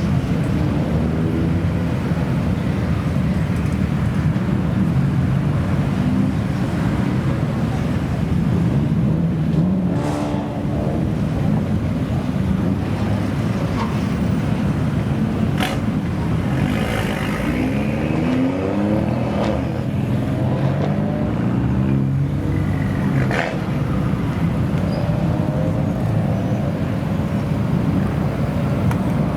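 Modified Japanese cars' engines running and revving, their pitch rising and falling repeatedly, with three sharp cracks spread through.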